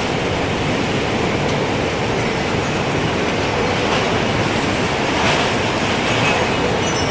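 Gusting wind rushing steadily, swelling a little near the end, with faint, sparse tinkles of a wind chime high above the rush.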